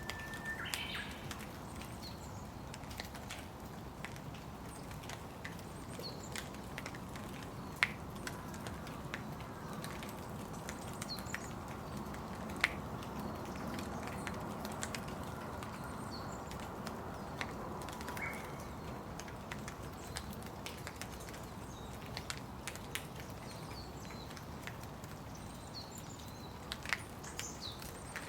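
Steady rain falling, with many scattered sharp drops tapping throughout, and a few short bird chirps, the first right at the start and more near the end.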